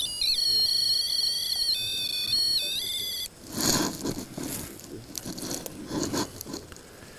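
A high electronic whine of several steady tones that jump in pitch now and then, cutting off suddenly about three seconds in. After it come crunching steps on a gravel trail, about two a second.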